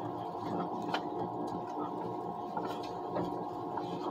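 Interior running noise of an ICE high-speed train at speed: a steady rumble with a constant two-note whine, and a sharp click about a second in.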